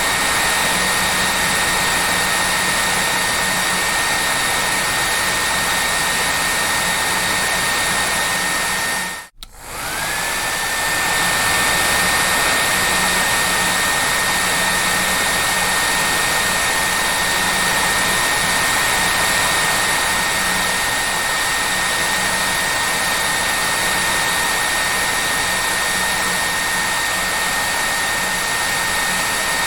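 Hair dryer blowing steadily: a rushing airflow with a steady high motor whine. About nine seconds in it cuts out for a moment and comes back, the whine rising back up to pitch as the motor spins up.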